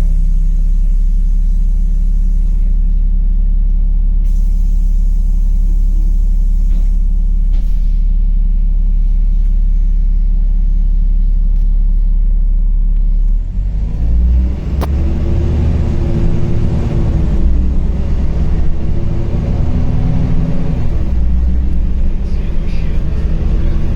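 LiAZ 5292.65 city bus engine idling with a steady deep hum; about 13 seconds in the bus pulls away, the engine note rising and falling as it accelerates through the gears.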